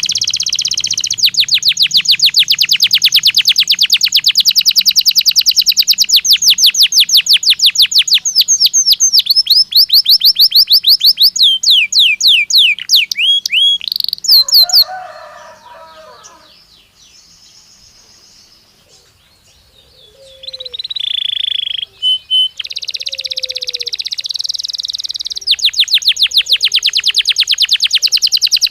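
Domestic canary singing long, fast trills of rapidly repeated high notes, one tour running into the next, with a short quieter pause about halfway through before the trilling resumes.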